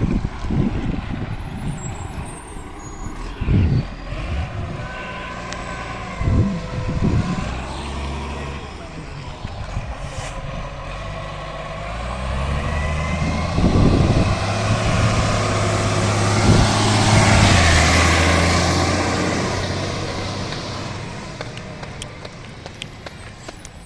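Garbage truck's diesel engine running with a few short knocks early on, then swelling to a loud peak with a strong hiss about three-quarters through and fading away, as the truck passes and moves off.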